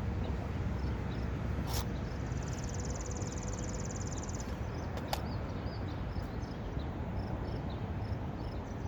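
Outdoor background: a steady low rumble with faint, repeated insect or bird chirps, a brief high buzz a couple of seconds in, and two sharp clicks about two and five seconds in.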